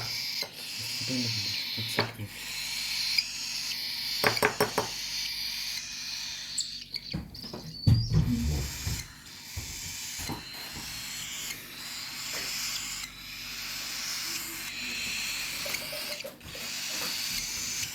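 Nestling birds begging with high, hissy calls that come in spells and break off, with a few small clicks and knocks in between.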